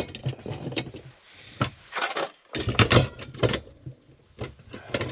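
Irregular clicks, knocks and rustling of food containers and kitchen gear being handled and set down.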